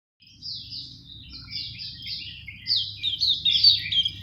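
Songbird practising its song: a fast run of short, downward-sliding chirping notes that grows louder about halfway through. A low steady hum runs underneath.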